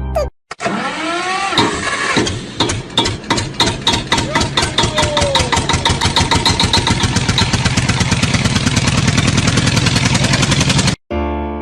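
An engine-like motor sound with a rhythmic chugging that speeds up steadily over several seconds, then cuts off suddenly near the end.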